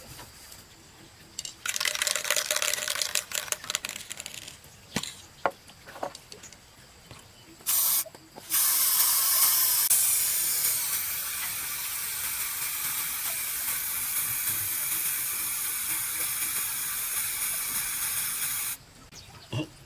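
A spray hissing steadily for about ten seconds and then cutting off suddenly. Before it come a shorter, rougher burst of hiss a couple of seconds in, a few sharp knocks, and a brief spurt just before the long spray starts.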